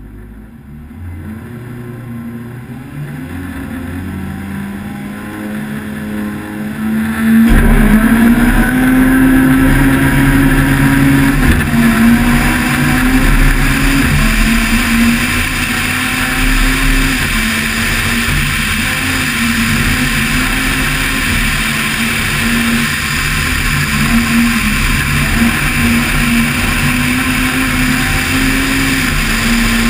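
Toyota Starlet rally car's four-cylinder engine running quieter with some revving, then suddenly loud about seven and a half seconds in as it launches and accelerates hard. The pitch climbs and drops back with each gear change as it is driven flat out.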